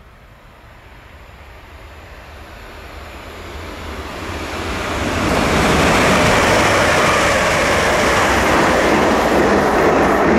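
A train approaching, growing louder for about five seconds, then passing with a steady loud noise.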